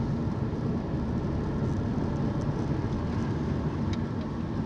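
Vehicle engine running, heard from inside the cab as a steady low hum.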